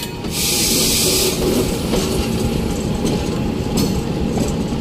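Passenger train rolling along the track, heard from an open window of the coach: steady wheel and coach rattle, with a short hiss about half a second in.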